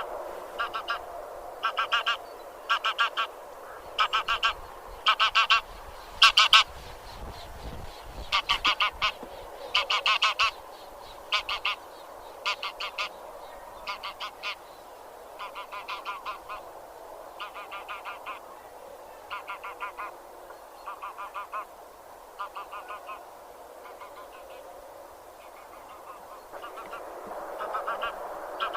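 A flock of geese (genus Anser) honking: bursts of several quick honks in a row over a steady background of distant calling from the flock. The honks are loudest in the first half and fainter later.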